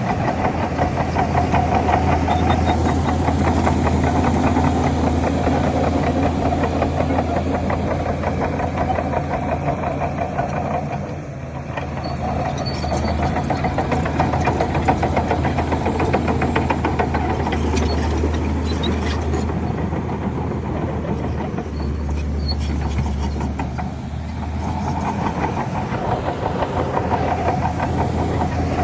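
Heavy diesel engine of earthmoving machinery running steadily under load, easing off briefly about eleven seconds in and again around twenty-four seconds before picking back up.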